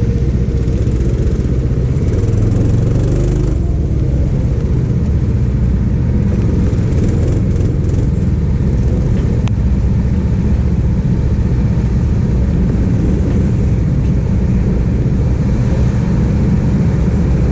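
Go-kart engine running steadily.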